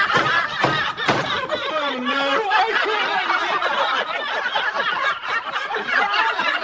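Sustained hearty laughter, several voices laughing together.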